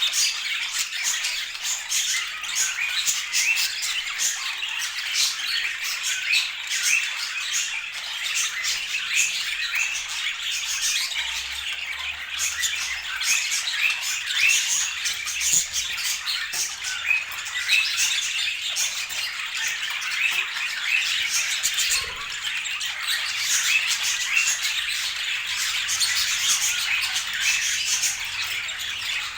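Budgerigars chattering: many short, high squawks and chirps that overlap without a break, as from several birds calling at once.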